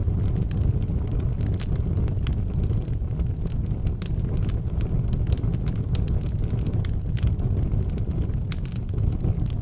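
Wood fire burning in an outdoor fireplace, with irregular sharp crackles and pops over a steady low rumble.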